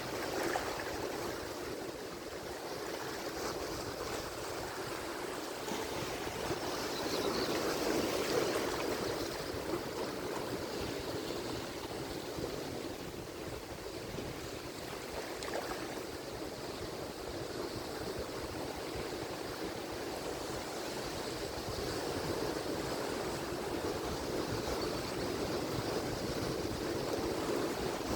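Atlantic Ocean surf crashing and washing ashore as a continuous rush of water. It swells louder about seven to nine seconds in and again near the end, then eases between waves.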